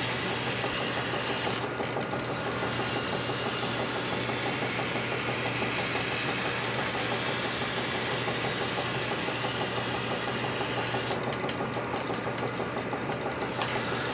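Lathe running with sandpaper held against the spinning part: a steady motor hum under the high hiss of the paper, which lets up briefly about two seconds in and again near the end.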